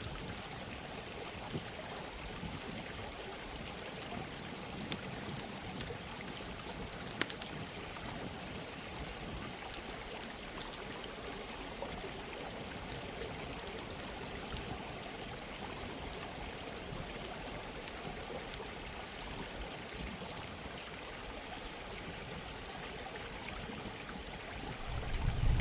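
Steady running water with scattered sharp pops and crackles of a campfire. A louder low rumble comes in at the very end.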